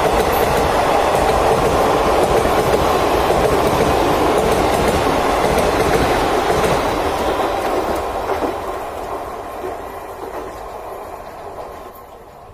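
Passenger train coaches passing at speed, a loud, steady rush and rumble of wheels on rails. The sound fades away over the last few seconds as the end of the train recedes.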